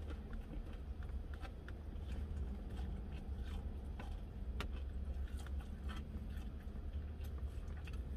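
Close-mic chewing of a breaded chicken sandwich: wet mouth sounds with scattered small crunching clicks, over a steady low hum.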